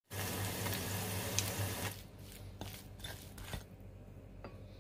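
Battered seri (Japanese parsley) roots deep-frying as tempura, hot oil sizzling and crackling steadily for about two seconds. It cuts off, leaving a quiet stretch with a few faint light clicks.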